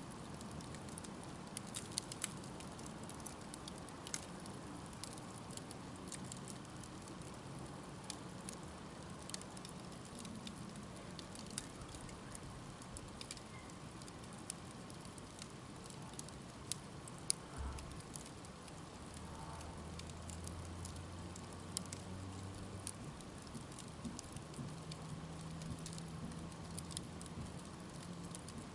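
Wood campfire crackling: scattered sharp pops and ticks over a steady soft hiss of burning.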